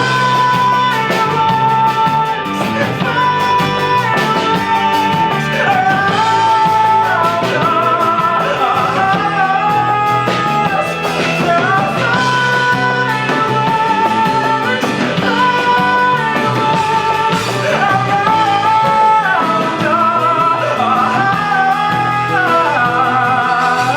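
Live band playing a loud rock ballad with guitar, under a wordless high melody of long held notes with vibrato that step up and down.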